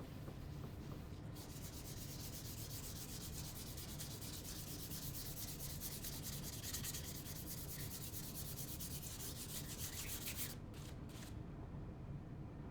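Rubbing on the red oak surface of a lazy susan during refinishing: a quick, even, rasping hiss that starts about a second in and stops suddenly near the end.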